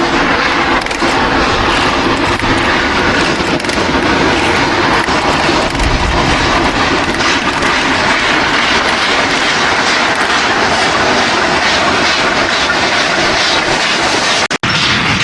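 Steam locomotive running, loud and steady, with a brief break in the sound near the end.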